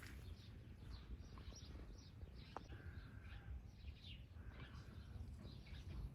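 Faint birdsong: many short, quick falling chirps from several birds calling over one another, over a low rumble of wind.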